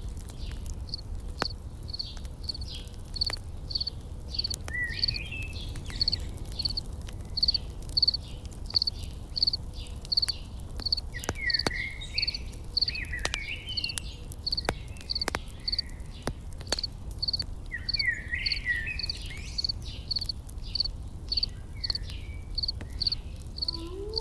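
Campfire crackling with sharp scattered pops over a low rush, while an insect chirps steadily about twice a second. Short bursts of bird chirps come in three times.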